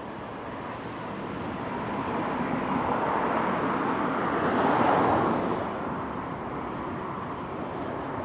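A motor vehicle passes close by on the street, its noise swelling, loudest about five seconds in, then fading away.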